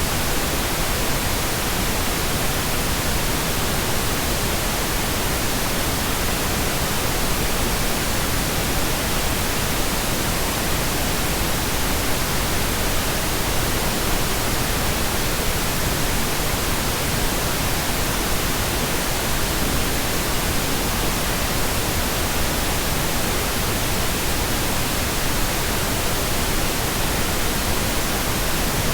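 Pink noise: a steady, even hiss with no changes or events.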